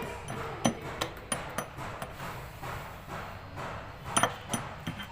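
Hammer striking metal in a series of irregular sharp taps. The loudest blows come just over half a second in and about four seconds in.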